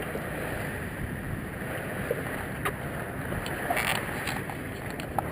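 Steady rush of wind and water aboard a sailboat under way, with a few brief clicks.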